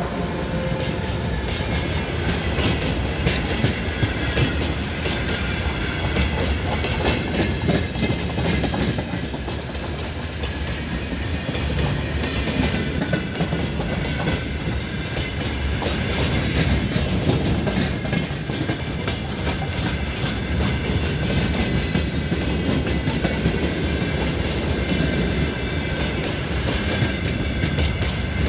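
Freight wagons rolling past, their wheels clattering over rail joints in a dense, continuous run of knocks, with a faint high ringing above.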